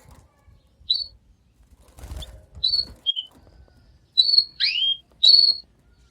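Canary giving short, high chirping notes, about seven of them, some sweeping up or down in pitch and coming closer together in the second half. A brief rustle about two seconds in.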